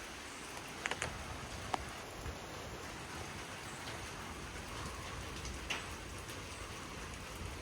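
Steady rain falling after a thunderstorm, with a few sharp drops tapping close by about a second in and again near six seconds.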